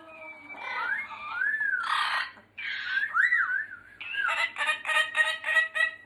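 Yellow-crowned Amazon parrot whistling and calling: a series of gliding whistles that rise and fall, then from about four seconds in a quick run of short repeated notes.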